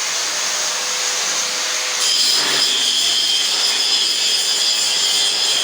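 A power tool running steadily with a high-pitched whine over a hiss. It gets louder about two seconds in.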